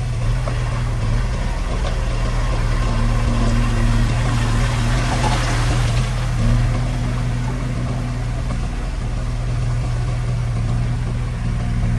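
Diesel engine of heavy construction machinery running steadily with a low, even throb, its note shifting slightly a few times. A hiss swells briefly around the middle.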